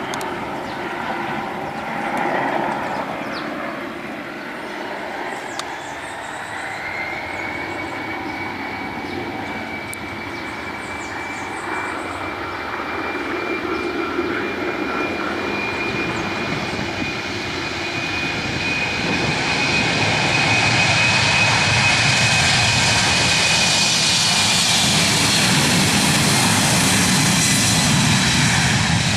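Embraer 195 regional jet's twin turbofan engines spooling up for takeoff: a whine rises about six seconds in to a steady high tone, and the jet noise swells from about eighteen seconds in, loudest near the end.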